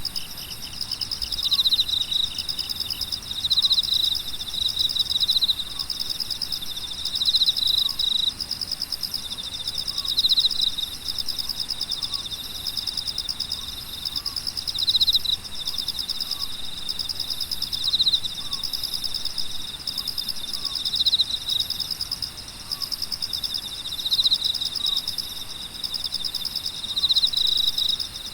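A chorus of grass insects chirring steadily in a high, rapidly pulsing drone at two pitches. A louder trill swells up every two to three seconds, and faint short lower calls recur throughout.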